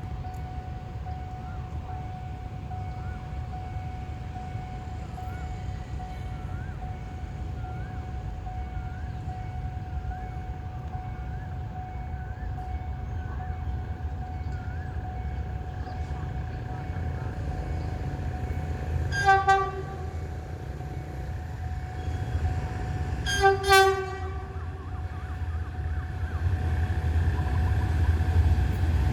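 An approaching passenger train, its low rumble growing louder toward the end. The locomotive horn sounds two short blasts about four seconds apart, a little past the middle.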